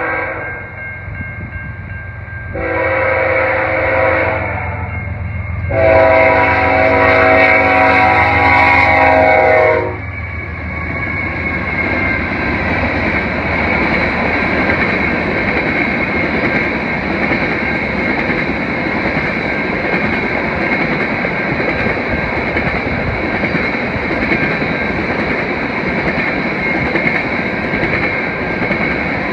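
CN freight train's diesel locomotive horn sounding for a grade crossing: one blast ends at the start, a short blast follows about three seconds in, then a long blast from about six to ten seconds, the loudest part, over the engines' low rumble. After that the train of tank cars rolls past with a steady rushing of wheels on rail.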